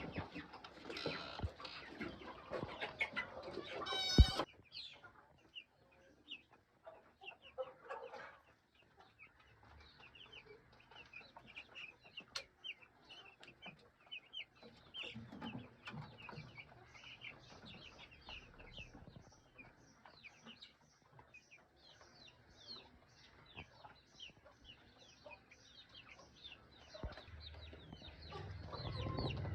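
A flock of young chickens peeping and cheeping continuously, many short high calls overlapping. About four seconds in there is a single loud sharp knock with a brief ringing tone, the loudest moment.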